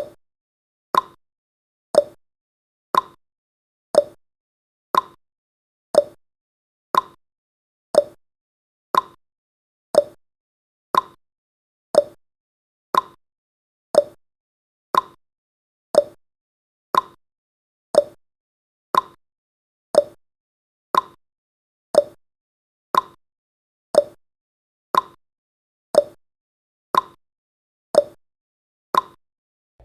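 Countdown timer's ticking sound effect: one short, sharp tick every second at a steady pace, like a clock.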